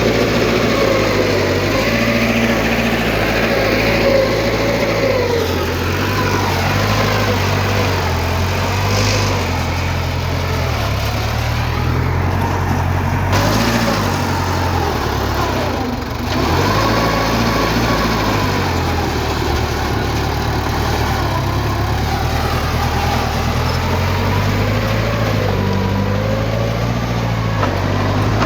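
Heavy diesel earthmoving machinery running continuously, its engine note rising and falling as the machine works.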